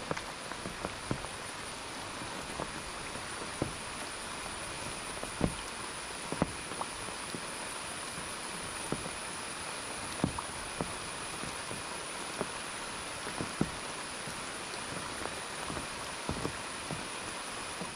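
Light rain: a steady hiss with irregular soft drips and ticks about every second.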